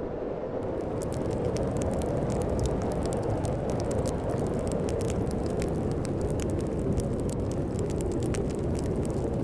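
Wood fire crackling in a fireplace, its sharp pops and snaps starting about half a second in, over a steady rush of storm wind.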